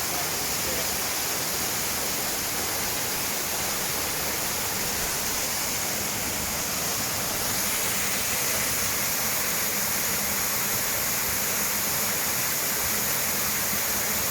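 Waterfall about fifty feet high, water rushing steadily.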